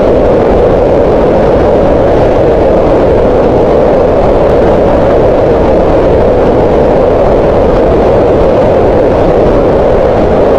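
Green noise: a steady, unchanging noise with its energy centred around 500 Hz, giving a soft, mid-pitched rushing sound.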